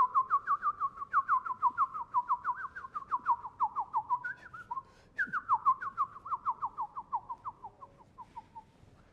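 A bird-like whistled call: a fast run of sharp downward-slurring notes, about five a second, drifting lower in pitch, in two phrases with a short break about halfway. The second phrase slows and fades away near the end.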